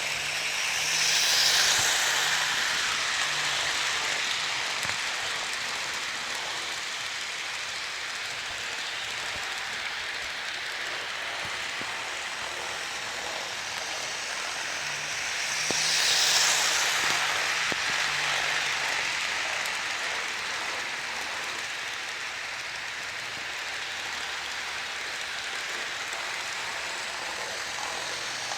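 HO scale model train running around the layout: a steady rolling hiss of wheels on track that swells twice as the train passes close, about fifteen seconds apart, with a faint low hum during each pass.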